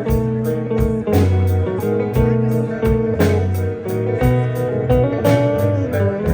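Live country band playing a song's instrumental intro: electric guitar lines over bass and a steady drum beat.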